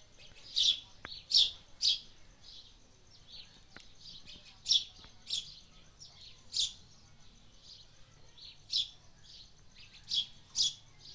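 A bird chirping: short, sharp, high-pitched chirps, about ten in eleven seconds, irregularly spaced and some coming in quick pairs.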